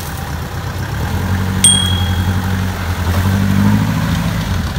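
Engine of an off-road 4x4 running steadily, rising a little in pitch about three and a half seconds in. A sharp metallic ding rings out briefly about a second and a half in.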